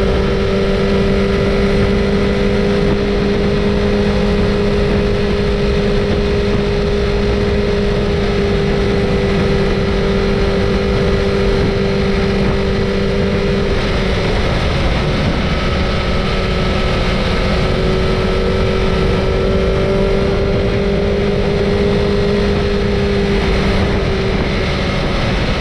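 Motorcycle engine running at a steady cruise, a constant drone over rushing wind noise, dipping briefly about halfway through.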